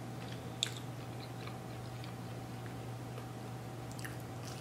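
Close mouth sounds of a person chewing a mouthful of soft pretzel dog, with small wet clicks; the sharpest comes about half a second in, with a few more near the end.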